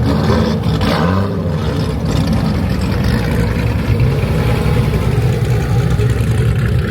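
Car engines running at idle with a steady low rumble, one rising briefly in pitch about a second in.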